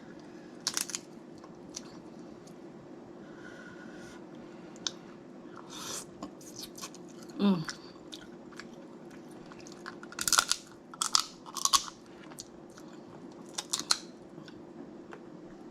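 Snow crab leg shells cracking and crunching between bites, with chewing, in scattered bursts that cluster around two-thirds of the way through. A short falling hum of the voice comes about halfway through, over a steady low background hum.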